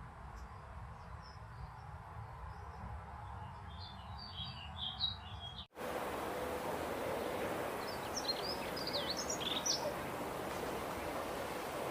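Small birds chirping in short, high calls. Just before halfway the sound switches abruptly to a noisier recording with a steady hiss behind a fresh run of chirps.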